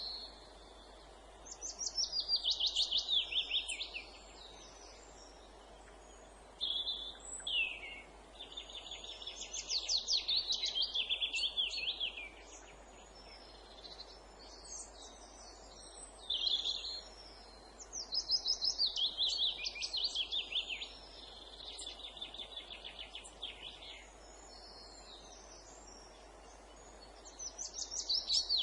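Songbirds singing: phrases of rapid, high, falling trills a few seconds long, repeated with short pauses between, over a faint steady background hiss.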